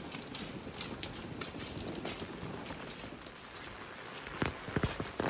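Heavy rain falling, a steady hiss with many separate drops ticking on a surface. A few louder knocks near the end.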